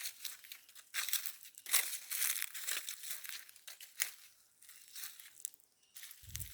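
Footsteps through dry leaf litter on the rainforest floor, an irregular crunching and crackling of leaves with each step, with a couple of dull thuds near the end.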